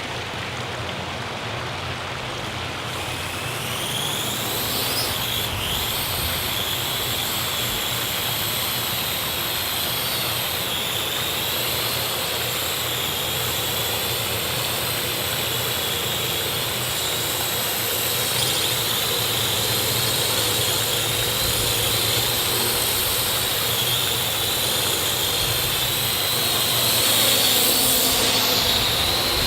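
Parrot quadcopter drone's electric motors and propellers whining in flight, the high pitch wavering up and down as the throttle changes over a steady rushing noise. It grows louder about four seconds in and again near the end.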